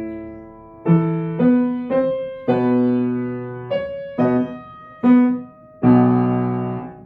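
Piano played slowly: notes and octaves struck one after another, each left to ring and fade, ending about six seconds in on a full chord in which one note slipped.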